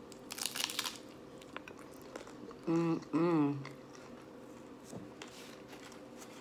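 A crunching bite into a hard-shell corn taco, then chewing with mouth-full sounds and two short hums in the middle.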